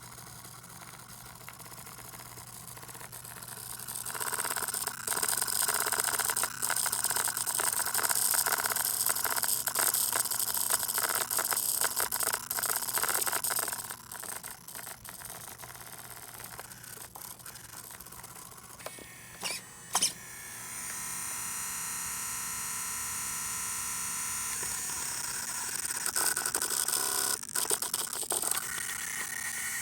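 Steering servo on an Associated SC10 RC truck making a high-pitched electrical whine after getting wet, a sign of water in the servo. It grows loud about four seconds in, drops back about halfway through, gives a couple of sharp clicks, then whines steadily again.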